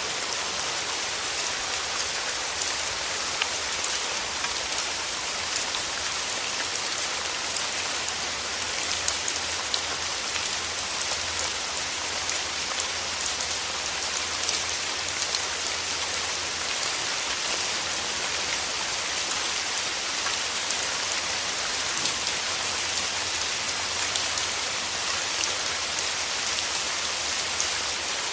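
Steady rain falling in a forest, an even hiss with many small drops ticking.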